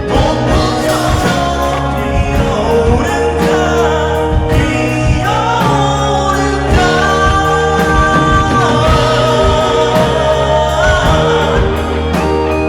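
Live band music with a singer holding long, drawn-out sung notes over the full band.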